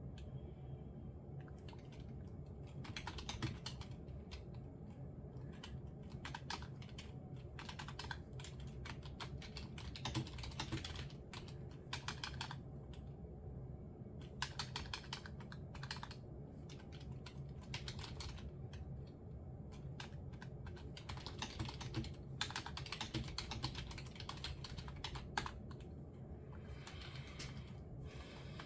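Typing on a computer keyboard in bursts of quick keystrokes with short pauses between, over a steady low hum.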